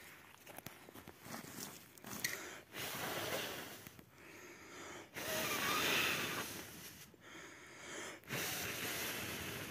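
Long, noisy rushes of breath, three or four in a row with short pauses between, the loudest about halfway through.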